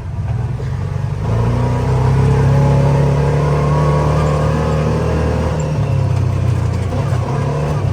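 ATV engine picking up revs under throttle about a second in, then running steadily at speed, with a rushing noise over it.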